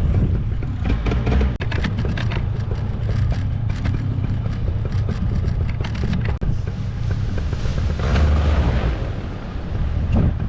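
Strong wind buffeting the microphone in heavy low gusts over a running paramotor engine.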